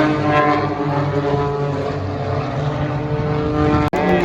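Propeller aerobatic aircraft flying overhead: a steady drone of piston engines and propellers, with a momentary dropout just before the end.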